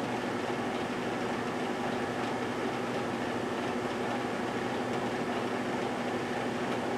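GE Dual Wave microwave oven running mid-cycle: a steady hum with fan noise.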